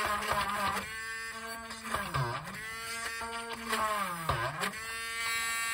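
Small electric drill running with a steady whine, its pitch dropping sharply and recovering twice as the bit bites into the plastic strut.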